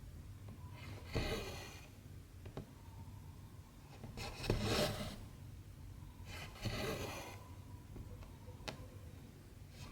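Cotton embroidery thread drawn through 14-count stamped cross-stitch fabric: three swishes of about half a second each, about a second in, around the middle and near seven seconds, then a light tick near the end.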